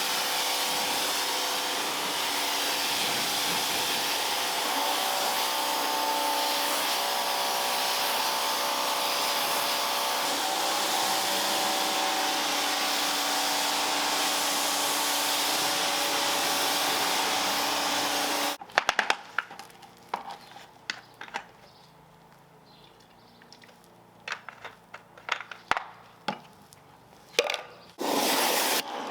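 Bosch electric pressure washer running with its spray hissing steadily, then cutting off suddenly about two-thirds of the way in. Scattered clicks and knocks follow, with a short loud burst of spray near the end.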